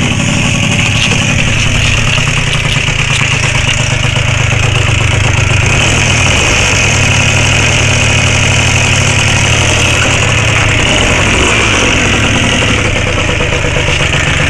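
Gilera Runner scooter's two-stroke engine, fitted with a ported 74 cc DR Evo cylinder kit and a derestricted Yasuni Z exhaust, idling steadily on its first run after a top-end rebuild.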